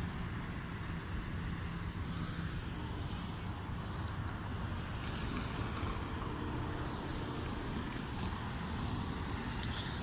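Steady low rumble of vehicle noise mixed with wind on the microphone, with no distinct events.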